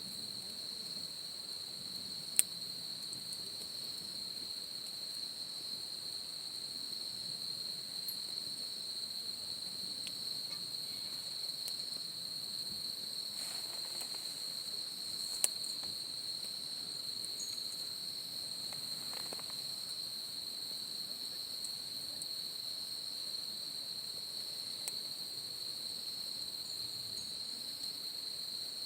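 Insects, crickets by the sound of it, trilling steadily on one high pitch. Two sharp pops stand out, about two seconds in and again about fifteen seconds in, typical of wood popping in a campfire.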